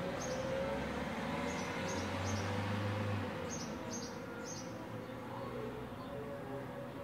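Small birds chirping in short, high notes, in quick groups of two or three, over a steady low street hum. A low rumble swells about two seconds in and fades a second later.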